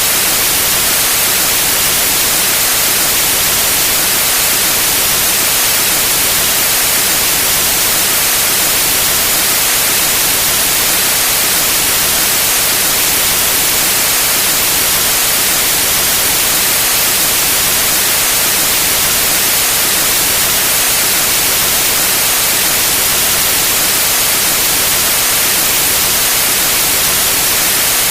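Steady white noise: a continuous, even hiss, loudest in the high range, that does not change.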